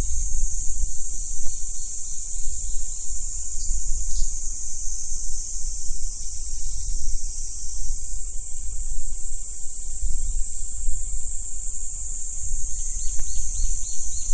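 Insects calling in a steady, unbroken high-pitched drone. A short run of quick, evenly repeated bird notes comes just after the start and again near the end, over a low rumble.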